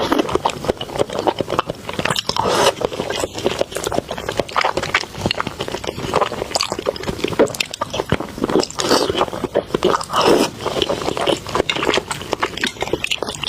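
Close-miked eating sounds: a person biting and chewing food, with many short, irregular clicks and wet mouth noises.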